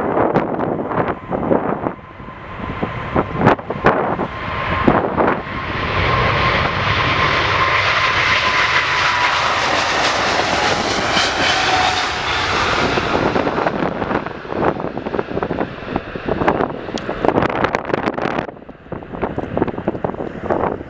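Jet airliner passing by: the engine roar swells, holds for several seconds and fades, with a thin whine sliding slowly down in pitch. Gusts of wind buffet the microphone throughout, most at the start and near the end.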